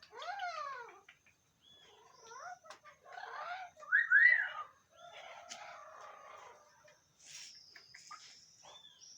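Several parrots calling over one another: swooping whistled glides, arching calls that are loudest about four seconds in, harsh raspy squawks, and a long high whistle near the end.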